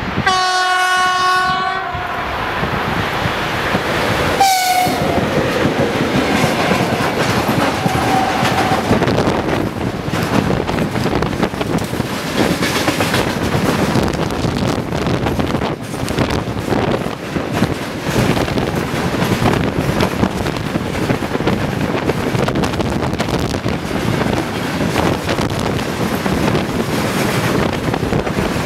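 VL80S electric locomotive sounding its horn for about two seconds as it approaches, then a second short blast about four seconds later that drops in pitch as it passes. After that, the steady rolling noise and wheel clatter of a long train of tank cars going by.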